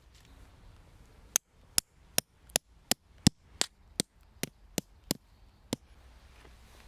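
About a dozen sharp, hard knocks in quick succession, roughly three a second, starting a little over a second in and stopping near the end.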